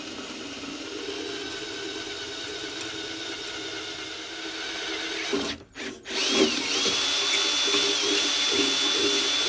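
Power drill running steadily as it enlarges a previously drilled hole; about halfway through it stops briefly twice, then spins back up with a rising whine and runs on at a steady, higher pitch.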